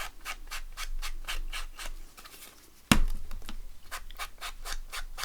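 Quick, even scratchy strokes on paper, about five a second, from hand work on a paper craft tag. A single sharp knock on the desk comes about three seconds in.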